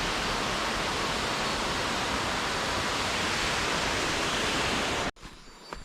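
Jungle waterfall rushing, a steady loud roar of falling water, which cuts off suddenly about five seconds in, leaving a much quieter background with a few faint ticks.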